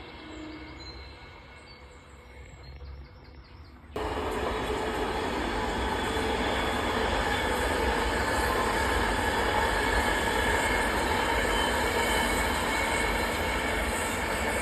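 Avanti West Coast Class 390 Pendolino electric train passing through, its wheels on the rails making a loud, steady rush with a steady whine over it. The rush comes in suddenly about four seconds in, after a quieter stretch.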